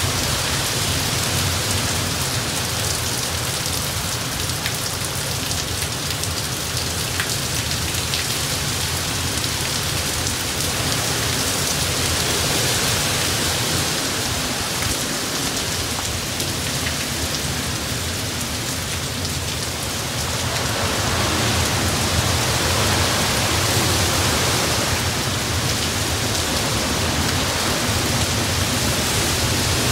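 Heavy hurricane rain pouring down and streaming off a roof edge, with strong wind, as a steady dense hiss over a low rumble. It grows a little louder about two thirds of the way through.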